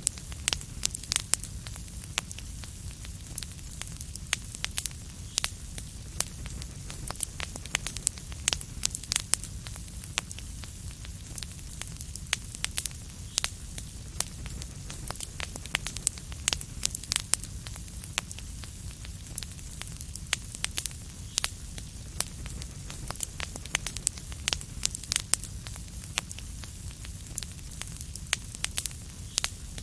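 Wood fire crackling: frequent sharp irregular pops and snaps over a steady low rumble and soft hiss.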